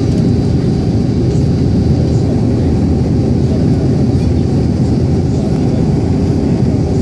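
Steady cabin drone of an Airbus A310 airliner in flight: engine and airflow noise, mostly low and even, with a faint high steady whine above it.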